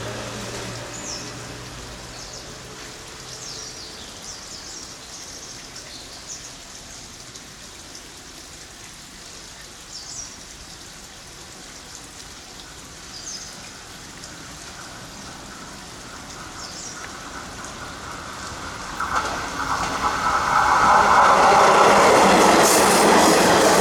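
A train approaching and passing close by, building from about 19 seconds in to a loud rush of wheel and rail noise over the last few seconds. Before that, a vehicle engine fades away at the start, and short high chirps come and go over a quieter background.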